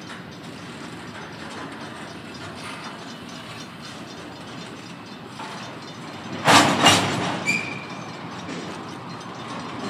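Doublestack container freight cars rolling past on the rails with a steady rumble, then two loud metallic clanks close together about six and a half seconds in, followed by a brief high squeal.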